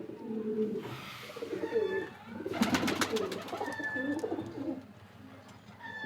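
Domestic pigeons cooing, several low wavering coos one after another, with a burst of rapid clattering about two and a half seconds in.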